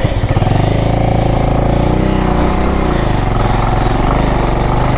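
Motorcycle engine running steadily under load while climbing a steep off-road slope.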